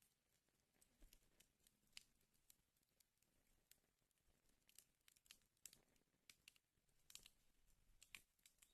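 Wood fire in a fireplace crackling faintly, with irregular sharp snaps and pops.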